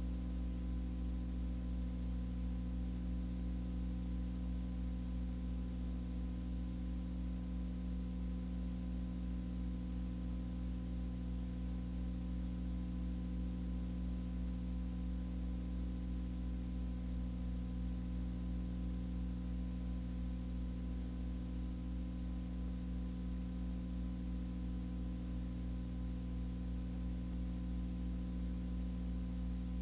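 A steady low hum made of several held tones, under a constant hiss, unchanging throughout.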